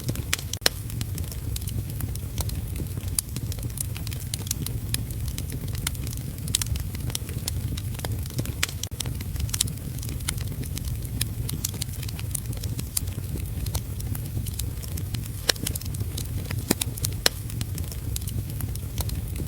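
Wood fire crackling in a fireplace: frequent irregular sharp pops and snaps over a steady low rumble, mixed with heavy rain.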